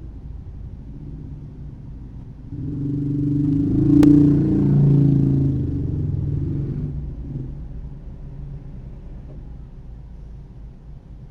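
A motor vehicle's engine swelling loudly for a few seconds and then fading, over a steady low road rumble, with a single sharp click near its peak.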